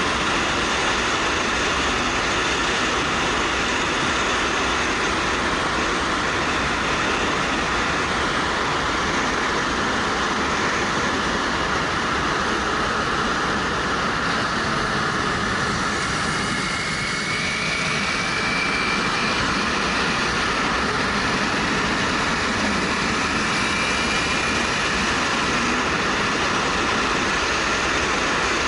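Steady rush of wind over a helmet-mounted action camera with the Suzuki GW250 parallel-twin motorcycle running underneath at road speed. A faint high whine comes in around the middle.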